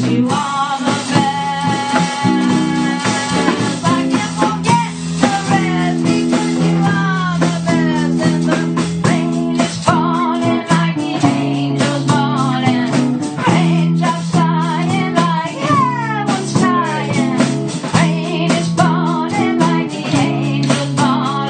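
Live blues-rock band playing: an electric guitar lead with bending notes over held bass notes and a drum kit, recorded on a phone.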